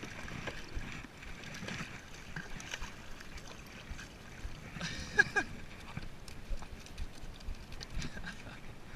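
Water lapping and small knocks and clicks of handling aboard a kayak, with one brief squeak falling in pitch about five seconds in.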